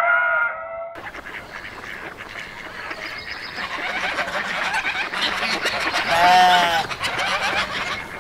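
A flock of fowl calling and chattering, with a loud drawn-out call about six seconds in. In the first second a different run of short repeated bird calls is cut off abruptly.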